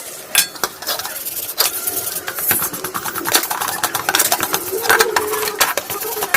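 Irregular metallic clicks and knocks of hand tools and small car AC compressor parts being handled and worked on.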